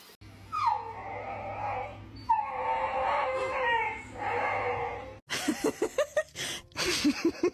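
A dog howling in three long, wavering calls, each starting with a falling pitch. After a sudden break about five seconds in, a quicker run of short sounds follows.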